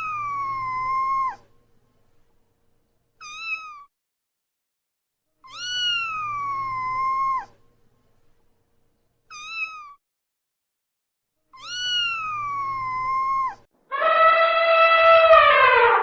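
Cat meowing: a long meow every six seconds or so, each followed about two seconds later by a short one, the same pair repeating three times. About two seconds before the end a different, louder call with a falling pitch starts.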